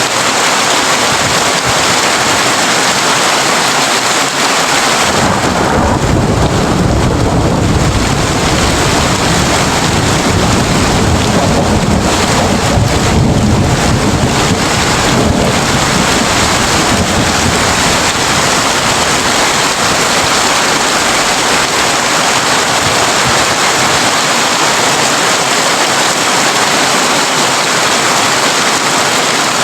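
Heavy rain drumming steadily on a tin roof. A long, low rumble of thunder rolls in about five seconds in and dies away a little past the middle.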